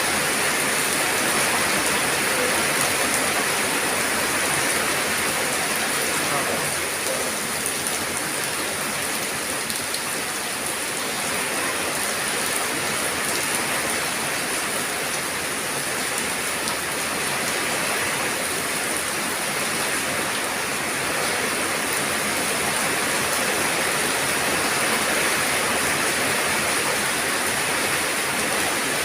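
Steady rain falling, an even wash of drops with faint scattered patter.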